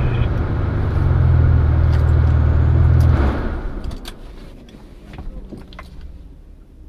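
Car engine idling steadily with the car at a standstill, then switched off a little over three seconds in. After that come only a few faint clicks.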